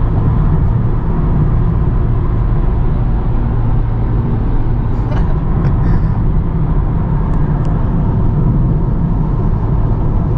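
Honda Civic Type R cruising at a steady speed: a continuous low engine drone mixed with road and wind noise.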